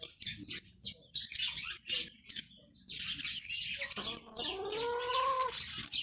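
Birds chirping in trees: many short, high chirps with brief pauses between them. About four seconds in, a lower, drawn-out call rises and falls for a second or so.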